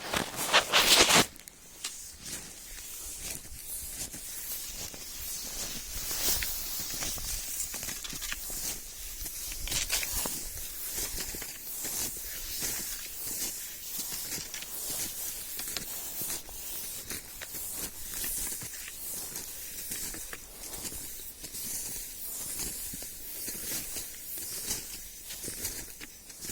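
Skis sliding and scraping over snow: a steady hiss broken by many short scrapes, with a louder rush lasting about a second at the start.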